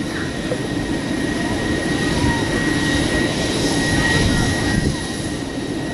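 Lockheed P-3C Orion's four Allison T56 turboprop engines running steadily: a high whine over a broad rumble, swelling a little in the middle.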